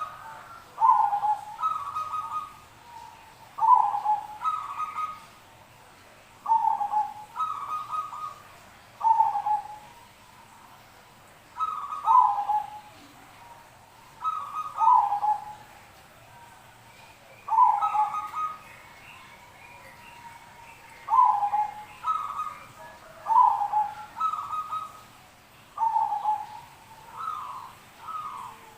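Zebra doves (perkutut) cooing. Short, rippling coo phrases repeat every couple of seconds, some phrases overlapping.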